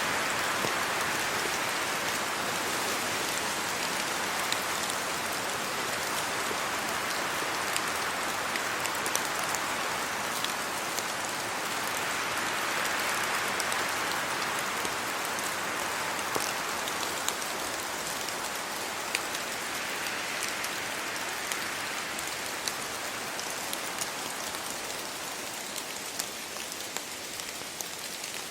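Steady rain falling on trees and leaves, an even hiss with scattered close drops ticking, slowly easing a little in loudness.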